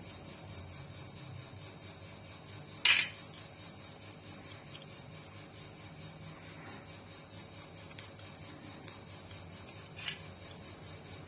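Metal parts and tools being handled during a sewing machine repair: one sharp, loud clack about three seconds in, then a few lighter clicks, over a low steady background.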